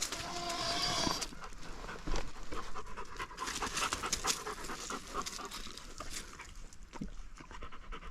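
A dog panting, a quick run of short breaths in and out.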